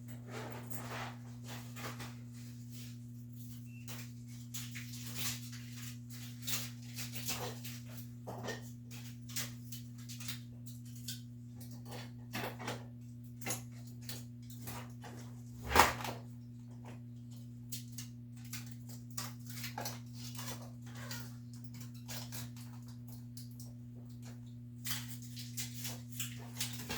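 Scattered clicks, taps and knocks of hand tools and metal parts during work on a top-load washer, with one sharper clank about 16 seconds in, over a steady low electrical hum.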